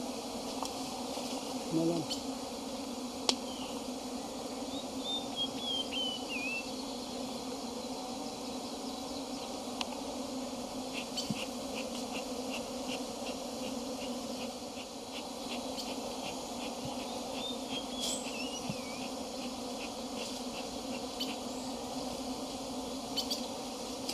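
Many honey bees buzzing around an open hive in a steady, continuous drone.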